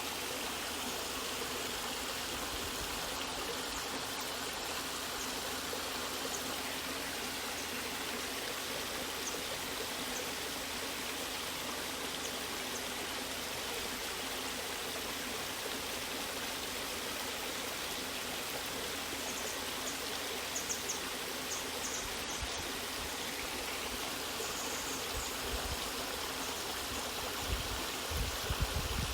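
Waterfall water rushing steadily, an even, unbroken hiss of falling and flowing water, with a few soft low bumps near the end.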